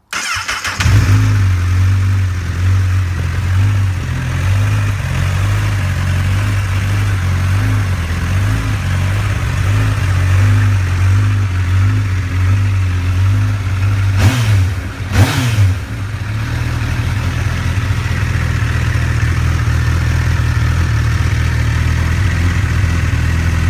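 Honda CBR1000RR inline-four motorcycle engine idling steadily through its exhaust. It is blipped twice in quick succession, about fourteen and fifteen seconds in, with the revs rising and falling back each time before it settles to idle again.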